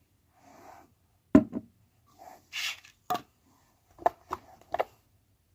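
About seven sharp clicks and knocks, some in quick pairs, with a short hissing rustle just after the midpoint: small objects and slime containers being handled and set down on a tabletop.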